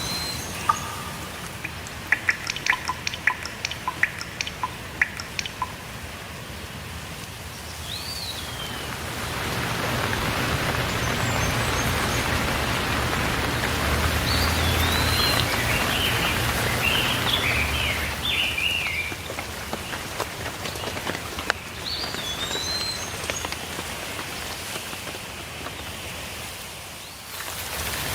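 Rain falling, with sharp drips and patters at first, then growing heavier and fuller about a third of the way in before easing. Birds chirp over it several times in short, rising and falling calls.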